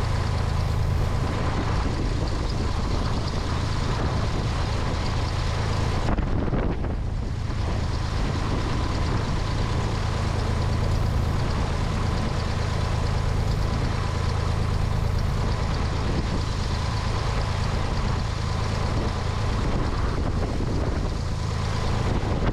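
Cessna 172's piston engine and propeller running steadily, with wind rushing over the wing-mounted camera and a faint steady high whine. The wind hiss briefly drops away about six seconds in.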